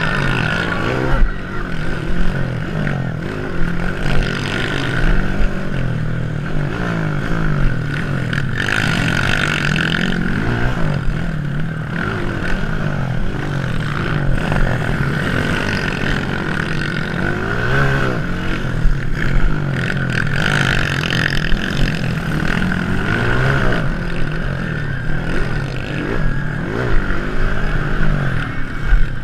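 Several motocross bikes racing, their engines revving up and down and overlapping, with sharp surges as riders open the throttle.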